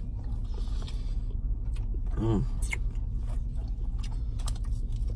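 Close-up chewing and small mouth and fork clicks from people eating mac and cheese out of a plastic bowl, over a steady low hum in the car cabin. A short hummed "mm" about two seconds in.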